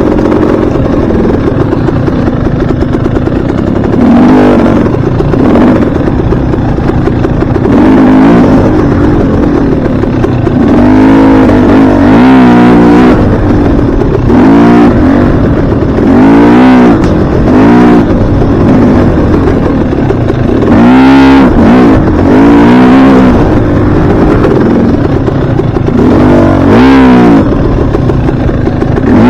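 Dirt bike engine revving up and falling back again and again as the throttle is opened and closed, over a constant rushing noise.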